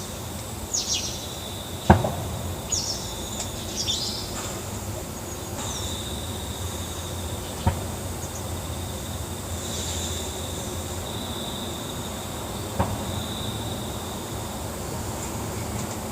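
Unidentified sharp, hollow 'pako pako' knock heard three times, roughly five seconds apart, the first the loudest. Short high chirps in the first few seconds and a steady high whine run beneath it.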